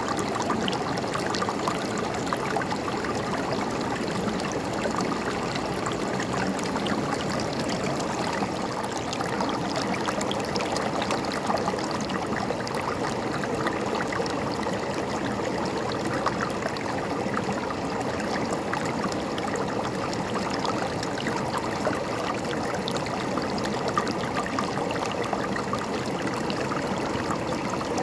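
River water flowing and gurgling over rocks: a steady rush with many small splashes, unchanging throughout.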